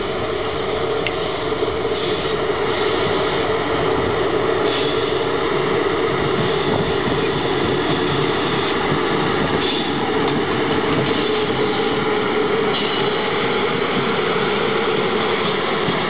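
Romanian CFR electric locomotive hauling a container train as it approaches and passes close by: a continuous rail rumble with a steady hum, growing a little louder in the first few seconds as the train nears.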